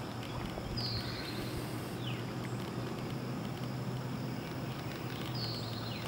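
A few brief, high-pitched bird chirps, one sliding down in pitch, over a steady low hum.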